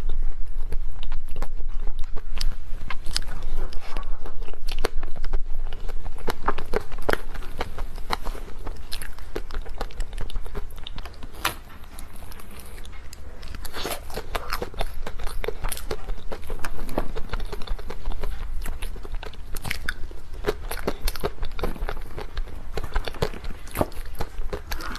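Close-miked ASMR eating of desserts: a person bites and chews with many small crunchy clicks, busier and louder for the first few seconds.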